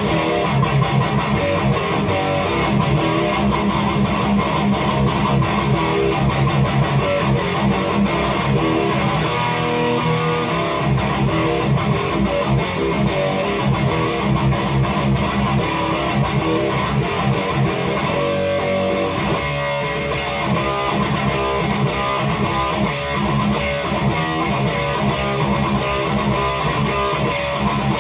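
Electric guitar played through a REVV G3 distortion pedal on its most aggressive red setting: heavily distorted, tight palm-muted chugging metal riffs played without a break.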